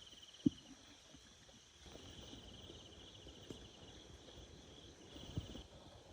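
Insects trilling in a high, fast-pulsed buzz that comes and goes in stretches, with two short knocks, one about half a second in and one near the end.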